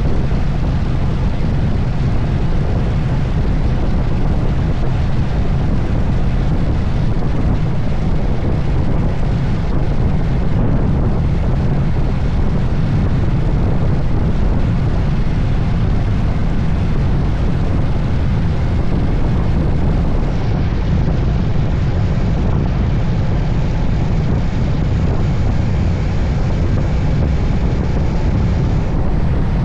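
Steady, loud wind rush buffeting a camera microphone on a Moto Guzzi Stelvio motorcycle riding at road speed, heaviest in the low rumble.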